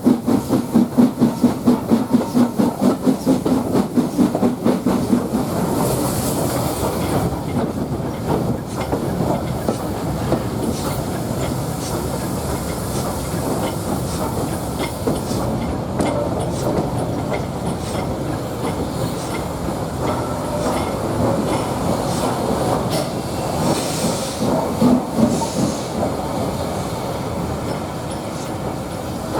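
Heritage railway train in motion behind the S&DJR 7F 2-8-0 steam locomotive: a rhythmic beat of about two to three pulses a second for the first few seconds, a brief hiss, then a steady rumble of carriage wheels on the rails with clicks from the rail joints.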